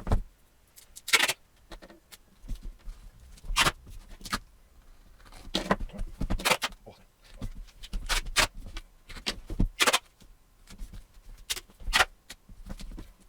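Gaffer tape being pulled off the roll and pressed onto a book's spine: a series of short, sharp tape rips and rustles at irregular intervals, with quiet gaps between.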